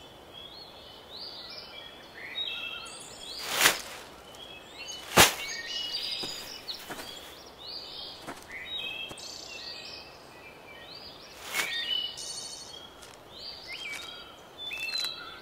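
Small birds chirping in short, repeated calls, with three short, sharp noises standing out about four, five and eleven and a half seconds in.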